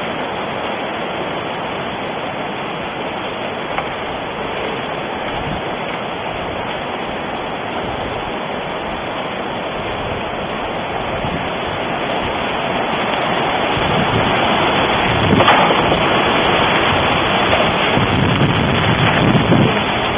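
Wind blowing across the microphone: a steady rushing noise that strengthens about two-thirds of the way through, with a couple of low buffeting gusts near the end.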